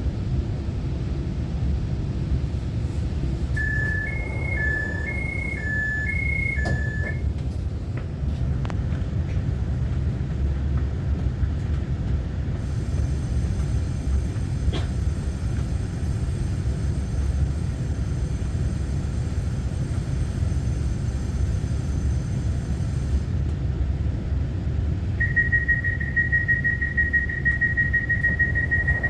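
Inside a Taiwan Railway EMU900-series electric commuter car standing at a station: a steady low rumble of the train's equipment. About four seconds in, a two-tone alternating chime sounds four times. Near the end, a steady electronic beep starts and keeps sounding.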